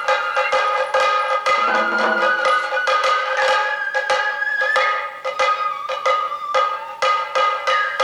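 Sato kagura festival music: a high flute melody with held, gliding notes over steady, sharp drum strikes, about two to three a second.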